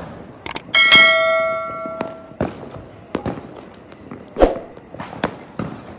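Fireworks going off in a string of sharp bangs and pops. About a second in comes the loudest one, with a ringing, bell-like tone that hangs on for over a second.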